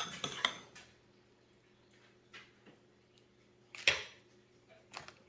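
A spoon clinking and scraping against a bowl while grits are stirred, dying away after about a second, then a few small taps and one louder clatter about four seconds in.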